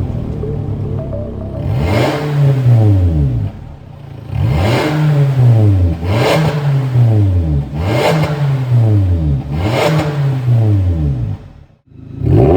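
Toyota Corolla Cross 1.8 with an MS-R valved cat-back exhaust, revved about five times in a row. Each rev climbs and falls back in pitch over about a second and a half. The sound cuts off briefly near the end, then another rev begins.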